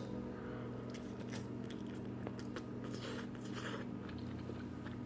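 A person biting and chewing a mouthful of spinach spaghetti with vegetables and meat sauce, close to the microphone: scattered faint clicks and short wet mouth noises over a steady low hum.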